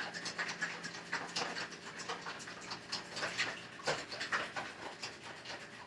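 A fork beating an egg-and-buttermilk wash in a bowl: quick, uneven clicking and scraping against the bowl, about three strokes a second.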